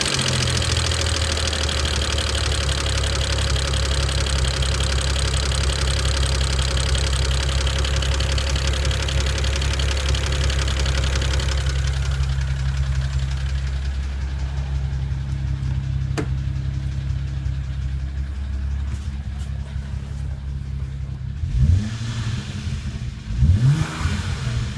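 BMW N54 twin-turbo straight-six idling with a loud, fast ticking over the engine hum; the ticking drops away about halfway through, and near the end the engine is revved briefly twice. The owner says it is not typical direct-injector noise, since it began after a JB4 firmware update, and that it gets louder with revs and does not stop once warm.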